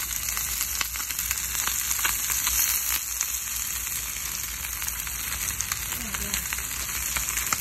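Food frying in a pan: a steady sizzling hiss with many small crackles and pops throughout.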